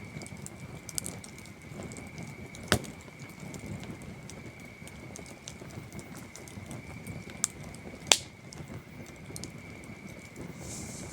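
Wood campfire burning with a soft steady rustle and scattered crackles, two sharp pops standing out at about a third of the way in and again near three-quarters. Crickets chirr in a steady high tone behind it.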